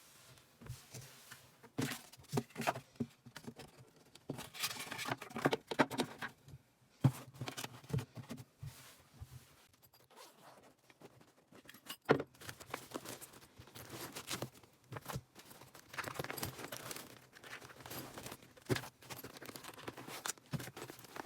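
Irregular rustling, crinkling and clicking of small objects being handled by hand, with a sharp knock about twelve seconds in.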